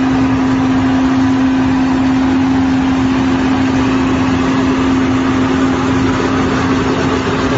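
Engine running steadily at constant speed, a steady hum over an even mechanical noise.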